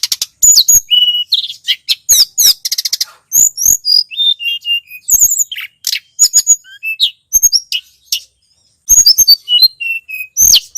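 Tledekan gunung birdsong, as played on a bird-lure track: a fast, dense run of sharp high-pitched chirps and short trills, with a brief pause a little past eight seconds in.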